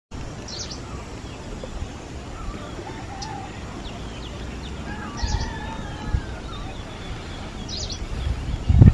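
Birds calling outdoors: a short, high chirping call repeats about every two and a half seconds, with some lower whistled phrases in the middle, over a steady low rumble. A loud low thump comes just before the end.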